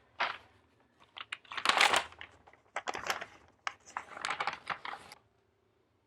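Rustling and crinkling of plastic takeout packaging being handled and opened, in irregular bursts with a few sharp clicks. It stops about five seconds in.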